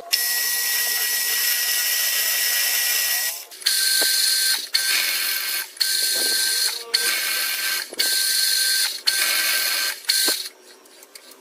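CNC machine tool running and cutting with a steady whine: one unbroken stretch of about three seconds, then about six short stretches of roughly a second each with brief gaps between them, stopping near the end.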